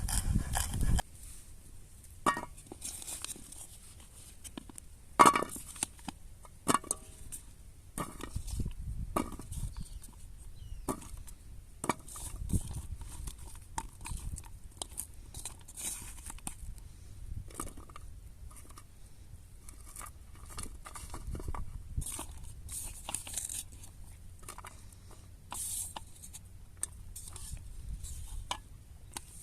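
Scattered clicks, taps and light rustling of objects being handled by hand, with a sharp knock about five seconds in. A low rumble stops about a second in.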